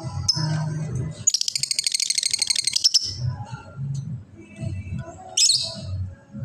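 Lovebird chattering: a fast, high trill of about ten notes a second lasting under two seconds, then a sharp high chirp near the end, over a low steady background.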